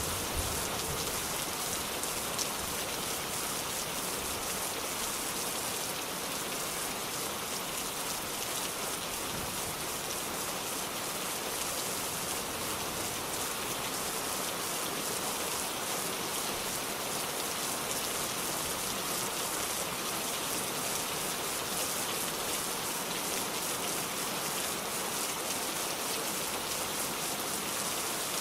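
Steady rain falling on a surface, an even hiss of many fine drops.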